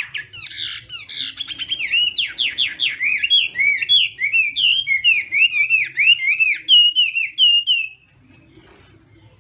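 Chinese hwamei singing a loud, varied song: quick runs of repeated downward-swept notes, then a string of looping, rising-and-falling whistles, breaking off about eight seconds in.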